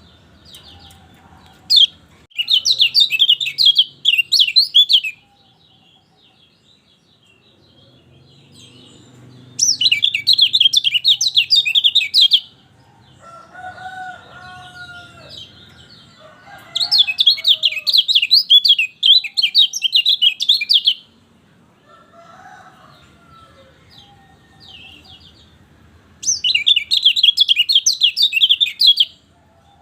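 Kecial kuning, a Lombok white-eye, singing four bursts of rapid, jittery twittering, each about three seconds long with pauses between. Fainter, lower chicken-like calls sound in the gaps.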